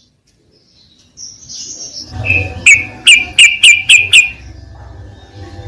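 Yellow-vented bulbul calling: a quick run of about six sharp, clipped chirps, three or four a second, beginning about two and a half seconds in after a near-silent start, over a low steady hum.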